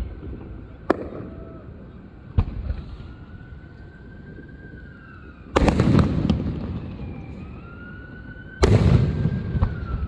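Fireworks going off: two sharp single bangs in the first few seconds, then two loud crackling bursts of about a second each, one a little past the middle and one near the end.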